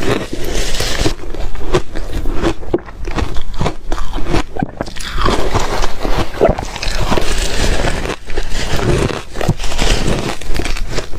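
Ice cubes crunched and chewed between the teeth close to the microphone: loud, irregular crunching and cracking that runs without a break.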